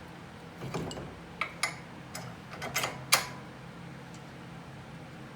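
Several sharp, irregular metallic clinks and taps, the loudest about three seconds in, as bolts and hardware are handled and taken out of the steering knuckle.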